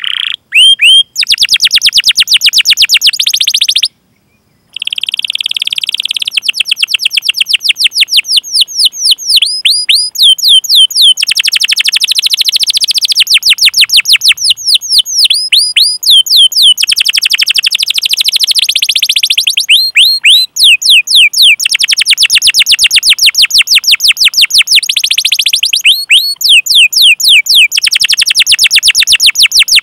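Domestic canary singing long rolls of rapid, evenly repeated high chirps, some notes sliding downward in pitch, in runs broken by brief pauses. There is a short silent gap about four seconds in.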